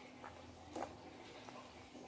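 Quiet eating sounds of fried chicken being chewed, with a few short mouth smacks or clicks, the loudest a little under a second in.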